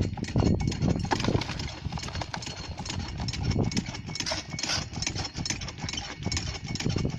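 Gas-engine drywasher running: a steady small-engine rumble with irregular clicking and clatter over it.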